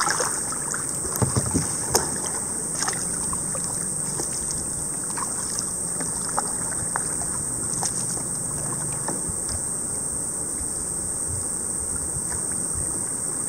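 Kayak paddling on a river: water splashing and dripping from the paddle strokes, with scattered light knocks, over a steady high hiss. A few louder knocks come in the first couple of seconds.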